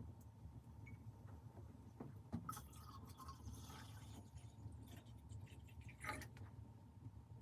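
Faint scraping and small clicks over a steady low rumble, with the scrapes loudest about two and a half seconds in and again near six seconds.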